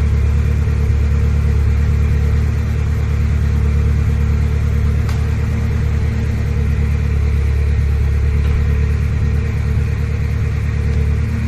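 Ferrari 360 Spider's V8 engine idling steadily, with a faint click about five seconds in.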